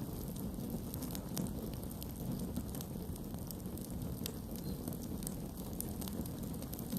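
Campfire burning with a steady low rumble of flame and scattered sharp crackles and pops from the burning wood.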